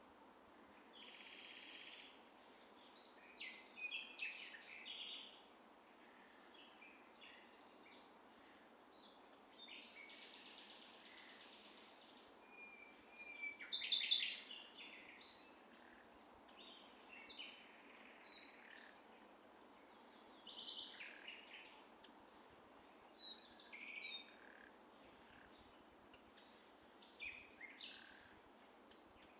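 Several songbirds singing and calling in scattered short chirps and trills, loudest about halfway through, over a faint steady background hiss.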